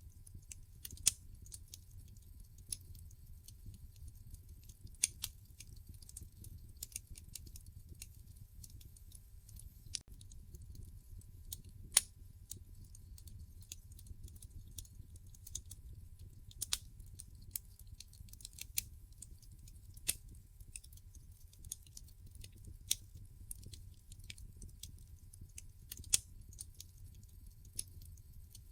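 Wood fire burning in a fireplace, crackling with irregular sharp pops and snaps, a few of them much louder, over a low steady rumble of the flames.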